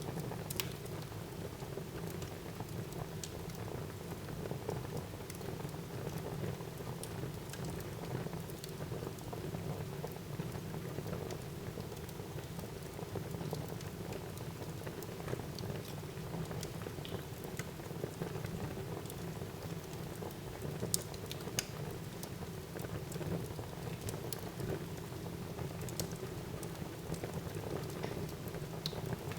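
Wood fire burning in a fireplace: a steady low rumble of flame with scattered sharp crackles and pops, a few louder pops near the end.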